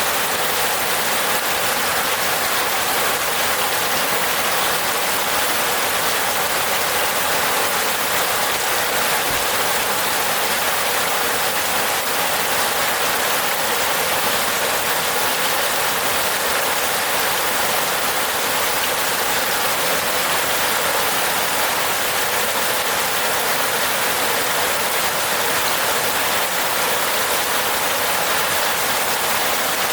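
Steady rain falling on a roof: an even, unbroken hiss of many raindrops, with no single drops or gusts standing out.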